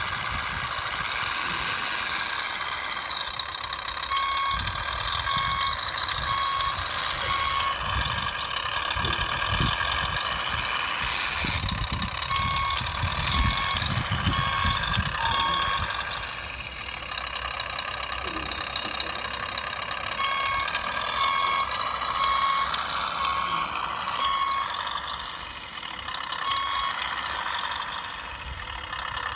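Electronic reversing beeper of a radio-controlled truck's sound module, beeping about one and a half times a second in runs of several seconds, over steady mechanical running noise.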